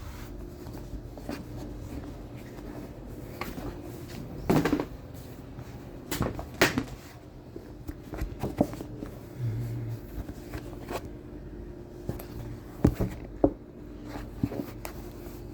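Scattered knocks and clicks of objects being handled, the loudest a few seconds apart, over a steady low hum.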